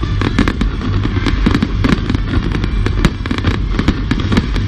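Fireworks going off in rapid succession: many sharp cracks and pops, several a second, over a steady low rumble.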